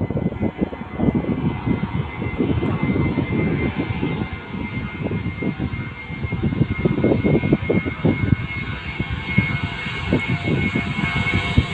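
Airliner engines running loud: a heavy, gusting low rumble under a steady high whine that grows a little brighter and higher toward the end.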